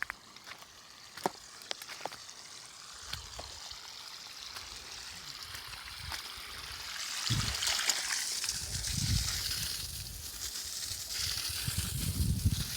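Water running and splashing, growing louder about seven seconds in, with a few sharp clicks near the start.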